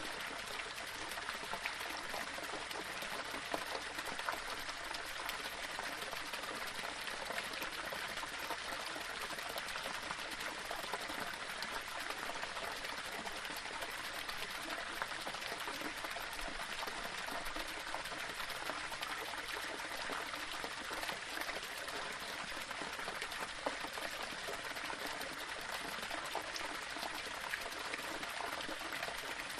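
Small waterfall splashing and running over stones: a steady rushing of water with fine splashes and drips throughout.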